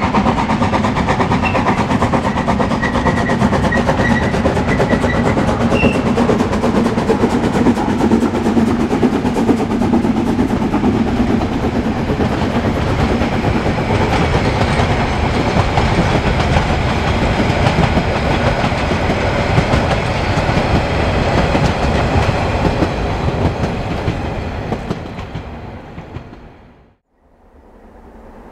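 Narrow-gauge steam train running on the line, with a steady loud clatter of wheels and rail. It fades away near the end, then cuts off abruptly.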